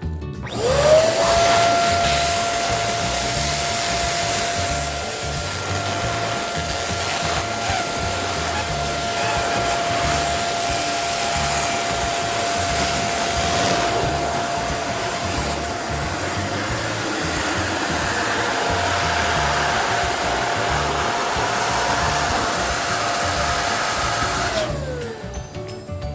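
Electric balloon pump running: a small fan motor with a steady whine over rushing air, spinning up just after the start and winding down near the end.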